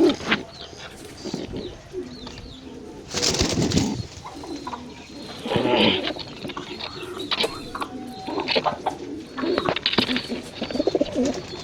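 Pigeons cooing, low and warbling, with a few short louder noises in between, the strongest about three seconds in.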